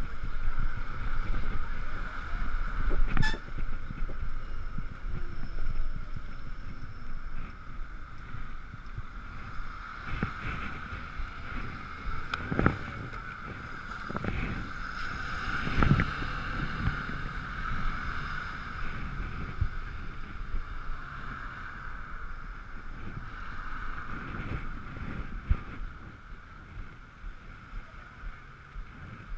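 Ekoway ML5000 electric motorcycle riding on a wet road in the rain: wind rushing and buffeting the mounted camera, with a steady high whine from the electric drive and a few sharp bumps. The noise eases near the end.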